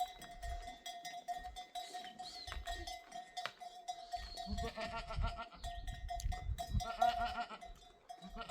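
Flock of sheep and goats with a steady ringing and clinking of livestock bells; animals bleat about halfway through and again near the end.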